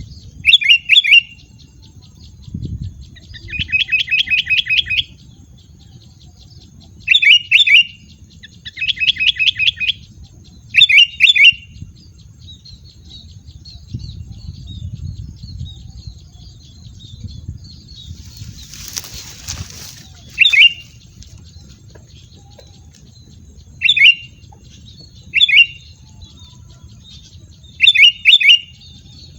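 A wild bird calling loudly in short clusters of two or three sharp notes, repeated every few seconds, with fast rattling trills between them in the first third. A short rushing noise comes about two-thirds of the way through.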